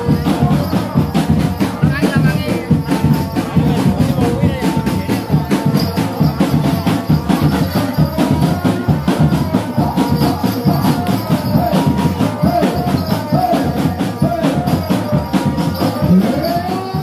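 Lively percussion music accompanying a barongan performance: dense, fast drumming with shaken jingles or rattles.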